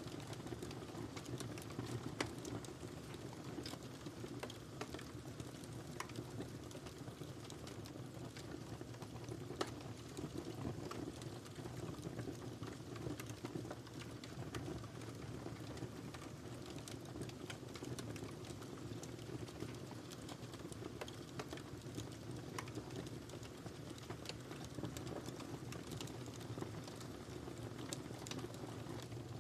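Wood fire crackling in a fireplace: a steady low rumble of burning with frequent small sharp pops and snaps scattered throughout.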